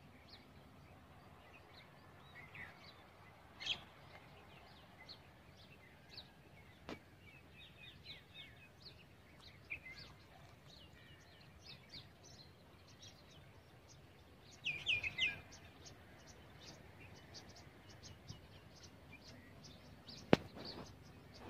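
Small birds chirping and twittering in many short high calls, with a louder flurry of calls about fifteen seconds in, over a faint steady outdoor rumble. A sharp click is heard twice, the loudest near the end.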